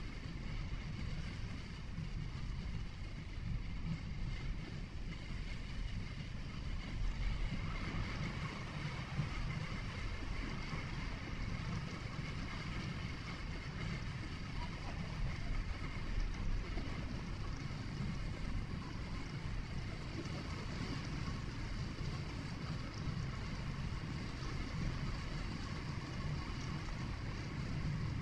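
Vehicle driving along a road: a steady low rumble of tyres and engine with a little wind hiss, heard from inside the cabin through a dash camera.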